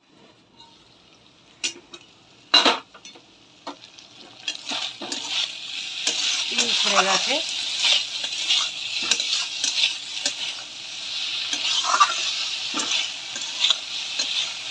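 A couple of sharp metal clanks from the steel lid of the kadai. Then, from about four and a half seconds in, okra sizzles as it fries in mustard-poppy paste, while a spatula scrapes and stirs it around the pan.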